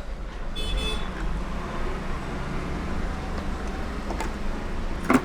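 Steady road-traffic rumble with a short horn toot about a second in, and one sharp click near the end.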